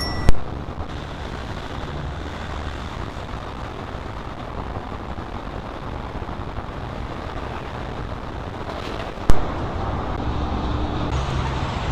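A steady low mechanical rumble of passing traffic, broken by two sharp clicks, one just after the start and one about nine seconds in.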